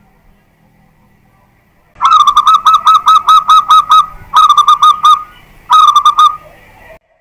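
Zebra dove (perkutut) singing: three loud phrases of rapid cooing notes, about five notes a second. The first phrase is the longest, and the two after it are shorter and separated by brief pauses.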